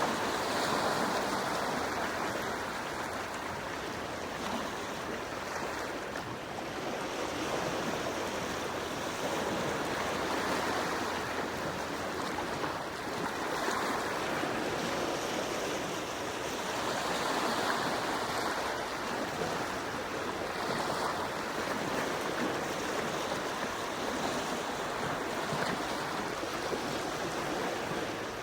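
Gentle sea waves washing onto the shore: a steady rush of surf that swells and eases slowly every several seconds.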